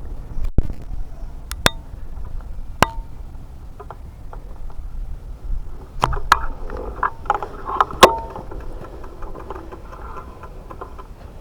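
Bicycle ride picked up by an action camera: a low wind rumble on the microphone, broken by scattered sharp clicks and metallic knocks, a few of them ringing briefly.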